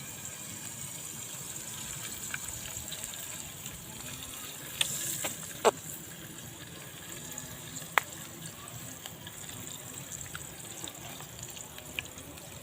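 Seasoning frying in hot oil in a pan, a steady sizzle, with a few sharp metal clicks of a spatula against the pan about halfway through.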